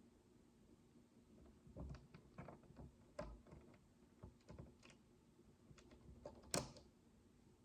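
Micro plastic building bricks being handled and pressed together: soft, irregular clicks and taps starting about two seconds in, with one sharper click near the end.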